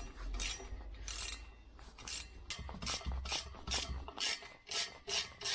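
Hand-tool work on metal motorcycle parts: a run of short, sharp scraping or ratcheting strokes, about two to three a second, uneven in spacing.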